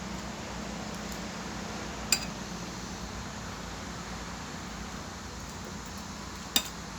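Two sharp clinks of cutlery against a plate, about two seconds in and again near the end, over a steady background hiss.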